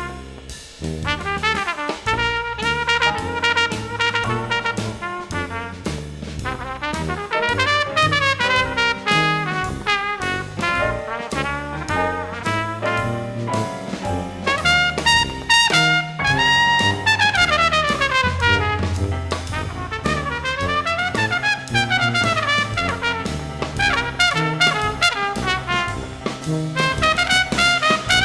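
Jazz played by a small brass ensemble: trumpet lines with quick rising and falling runs over a tuba bass line, baritone saxophone, keyboards and a drum kit.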